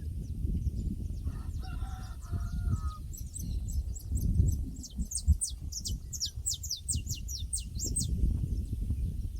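Rural pasture soundscape: a distant rooster crows briefly about a second in, then a songbird sings a run of quick, high, downward-sweeping notes, several a second, over a steady low rumble.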